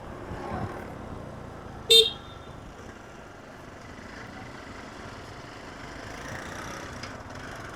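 A single short vehicle horn beep about two seconds in, over faint steady road and street background.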